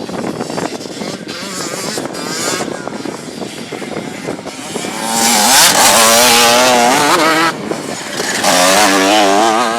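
Motorcycle engine revving hard in two long bursts, its pitch wavering up and down, after a quieter stretch of the engine running at lower revs.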